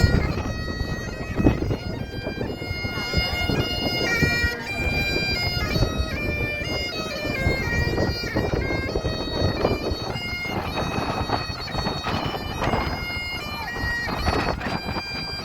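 Bagpipes playing a tune, the notes stepping from one held pitch to the next over a low rumble of wind on the microphone.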